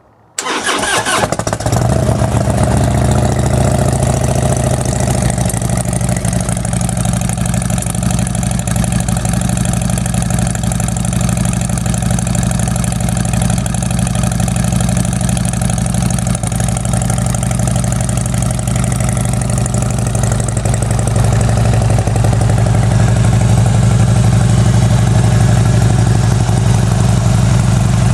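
2014 Harley-Davidson Street Glide Special's Twin Cam 103 V-twin starting up through an MGS custom exhaust, catching about half a second in, then idling steadily. It grows slightly louder for the last several seconds.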